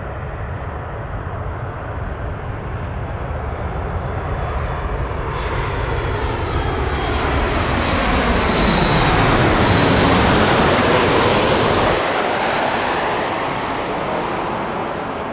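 Jet noise from a Boeing 737 MAX 8 airliner passing by. It swells steadily, peaks with a sweeping whoosh about ten seconds in, then begins to fade as the aircraft moves away.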